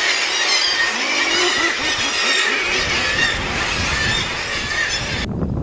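Seabird colony calling: a dense din of many overlapping high squealing calls, with a low rumble joining about halfway. Near the end the din cuts off to a few separate calls.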